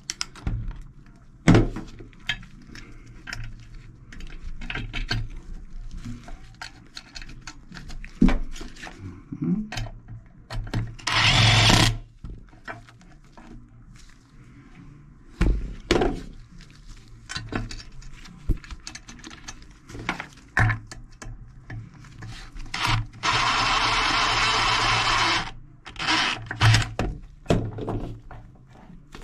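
Tools and metal faucet parts clicking and knocking as a sink faucet's handles and valve parts are fitted back together. Two bursts of steady rushing noise cut in, a short one about a third of the way through and a longer, even one of about two seconds near the end.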